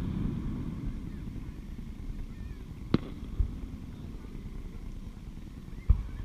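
Distant aerial fireworks shells bursting: a sharp bang about three seconds in, a duller thump just after it, and another low thump near the end.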